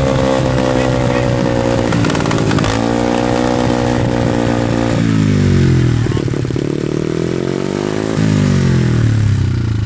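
Small 90cc pit bike engine revved and held at high revs, going higher about two and a half seconds in, then dropping sharply at about five seconds and swinging down and back up as the throttle is worked.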